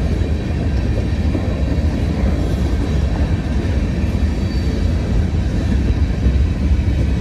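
CSX freight train making a steady low rumble, with no distinct clanks, squeals or horn.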